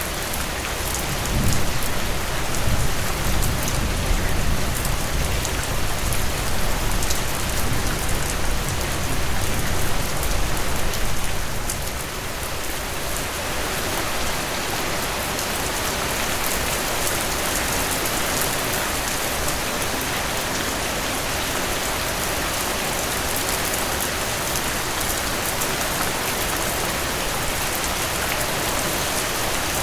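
Heavy rain pouring steadily onto surfaces, a dense even hiss with scattered crisp drop hits. A low rumble of thunder rolls under it for the first ten seconds or so, then fades, leaving the rain alone.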